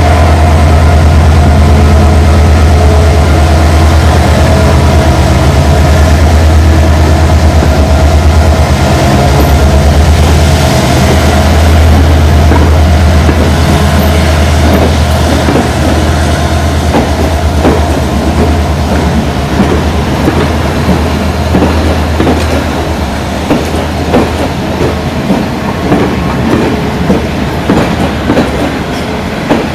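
Passenger train passing close by: the locomotive's steady, loud drone fades after about twenty seconds, giving way to the clickety-clack of the coaches' wheels over rail joints, which grows plainer near the end.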